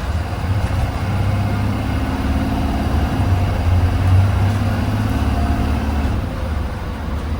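Blue Bird Vision school bus engine running as the bus moves, a steady low hum that grows louder through the middle and eases off near the end.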